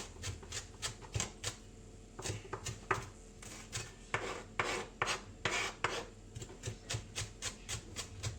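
Kitchen knife chopping red and green chillies finely on a chopping board: a quick, irregular run of short knife strikes, a few of them longer strokes.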